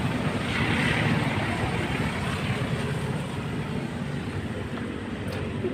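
Steady road traffic noise, a continuous low rumble with a swell of hiss about a second in.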